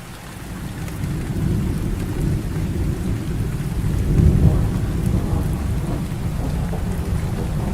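Heavy rain falling steadily, with a long low rumble of thunder that swells over the first second or so, peaks about four seconds in and keeps rolling.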